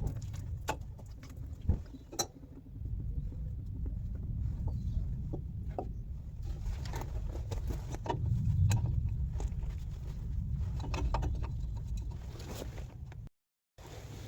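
Scattered light clicks and taps of hand tools and metal fittings being worked on, with a sharper knock about two seconds in, over a steady low rumble. The sound cuts out briefly near the end.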